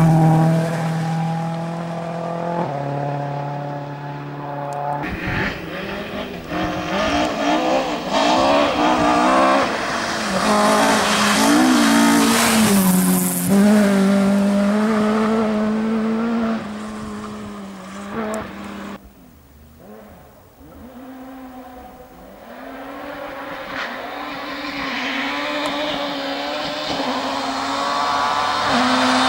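Rally cars at speed: one car's engine revving hard and changing gear as it goes by, fading out about two-thirds of the way through, then a second car's engine approaching and growing louder near the end.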